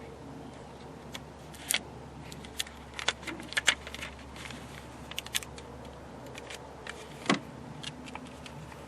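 Scattered sharp clicks and light jingling of small hard objects being handled, irregular and unrhythmic, as a hunting tag is fastened to a turkey's leg.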